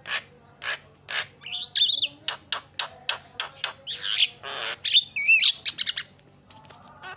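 Javan myna (jalak kebo) calling in a long, busy run: short harsh notes and clicks, about two or three a second at first, mixed with squawks and warbling whistled glides in the middle.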